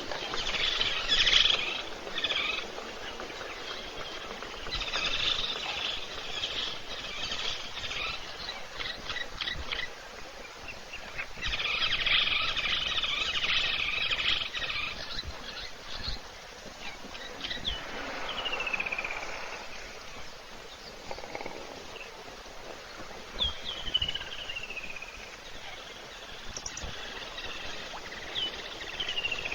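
Wild birds chirping and calling: dense bursts of chattering chirps in the first half, then several short falling whistles in the second half.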